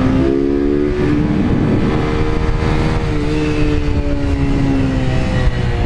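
Single-cylinder Honda CG 160 Fan motorcycle engine running under way, its pitch climbing early on and easing off after about three seconds, over a heavy low rumble of wind and road noise.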